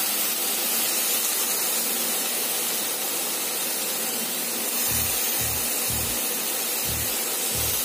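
Chopped vegetables and onion frying in a little hot oil in a steel kadai: a steady sizzling hiss. Low thuds join underneath from about five seconds in.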